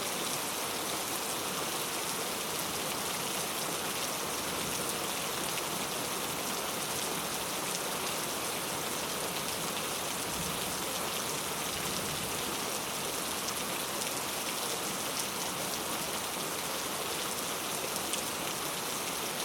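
Steady rain falling on surfaces, an even hiss dotted with the patter of individual drops.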